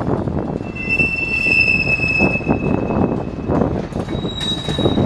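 Freight train boxcars rolling slowly past, the wheels rumbling and clattering on the rails. A steady high wheel squeal sets in about a second in and fades after a few seconds, and a second, higher squeal starts near the end.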